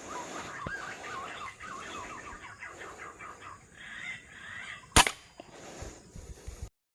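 Birds calling over and over in quick choppy phrases. About five seconds in, a single sharp crack from an FX Crown PCP air rifle firing. The sound cuts off just before the end.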